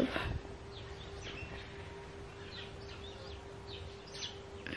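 Faint background birdsong: short high chirps every half second or so, over a steady low hum.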